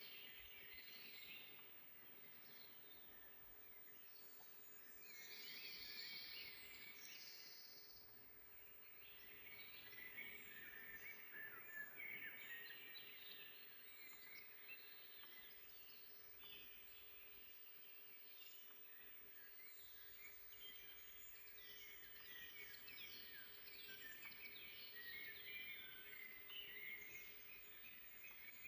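Faint forest birdsong: several birds singing at once in a dense run of short chirps and trills, over a faint steady hum.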